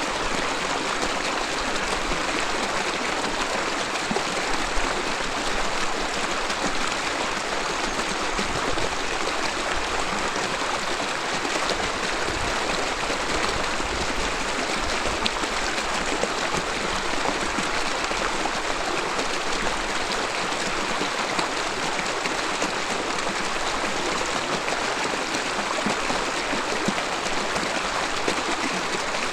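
A mountain river babbling steadily over rocks, an even rushing with small splashes.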